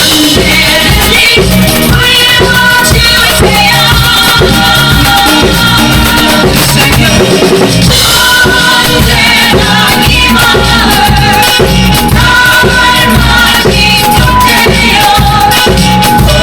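A drum kit played along to a recorded pop song, with the drum hits keeping a steady beat under a sung melody and the backing band.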